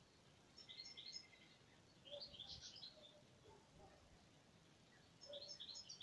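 Faint birdsong: three short, high chirping phrases a couple of seconds apart, over a faint steady background hiss.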